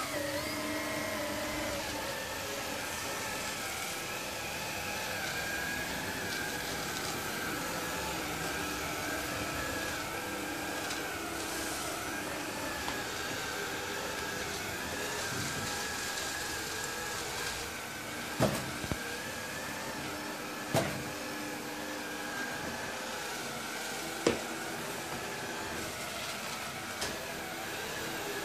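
Sharp robot vacuum cleaner running with a steady motor hum and whir. A few sharp knocks in the second half stand out above it.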